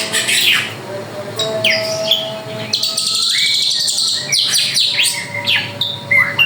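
Drongo singing energetically, a varied song of quick falling whistles and chirps with a buzzy trill a little under halfway through.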